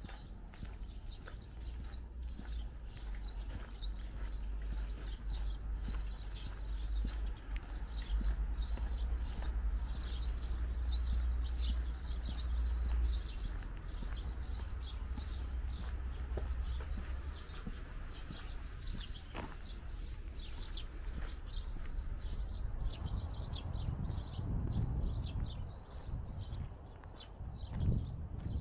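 Small birds chirping in quick, repeated high notes, over a low rumble that fades about halfway through.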